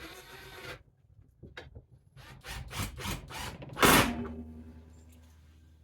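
A screw being driven into wood: a scraping rub, then a run of short rasping grinds and a loud final crunch as it seats, with a low hum dying away after it.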